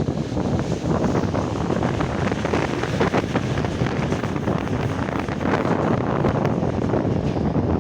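Wind buffeting the microphone over the steady running noise and rattle of a moving passenger train.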